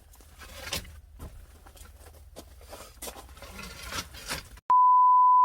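Small clicks, scrapes and rustles of things being handled, then near the end a loud, steady electronic beep at one pitch starts abruptly and holds.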